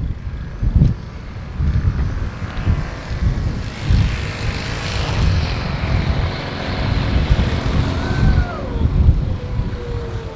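Wind buffeting the microphone in gusts while cycling. An engine passes in the middle, its hiss and hum rising and fading.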